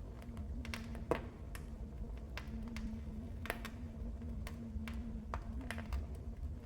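Wood fire crackling in a fireplace: irregular sharp snaps and pops, the loudest about a second in, over the low rumble of the flames.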